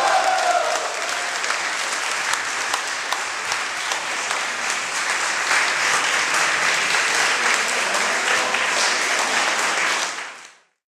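Audience applauding, many hands clapping together, with the last note of the music dying away at the start; the applause fades out just before the end.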